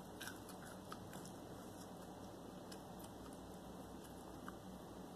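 A person chewing crispy fried chicken, faint, with a few soft clicks now and then.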